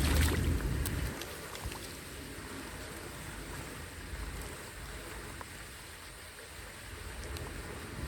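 Steady rush of running water, with low wind rumble on the microphone in the first second.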